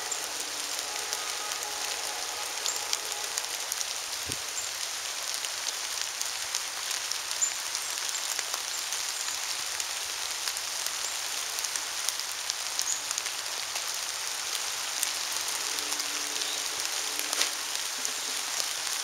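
Steady rain or drizzle falling, an even hiss with scattered small ticks of drops.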